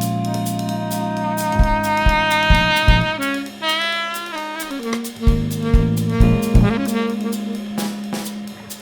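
Jazz fusion band playing live: a lead line of long held notes, wavering through a quick run a little past three seconds in, over bass and drum kit hits.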